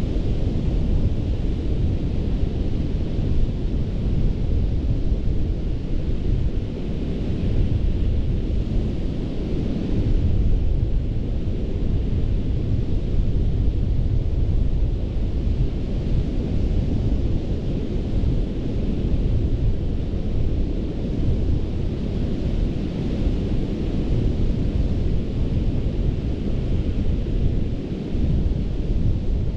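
Gulf of Mexico surf breaking and washing onto a sandy beach, a continuous rush that swells gently every few seconds, under a heavy low rumble from wind on the microphone.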